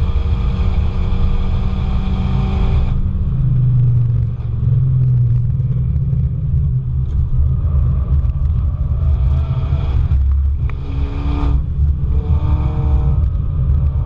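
Car engine running on track: a steady note for about three seconds, then a deep low rumble, with the note picking up again about ten seconds in.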